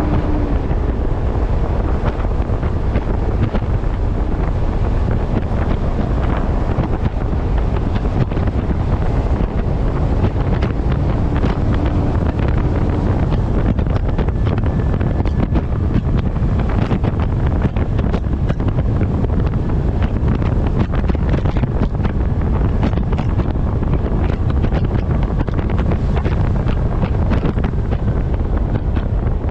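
Heavy wind buffeting on the microphone of a camera mounted on the front of a moving truck, a loud, steady low rumble with constant irregular gusting.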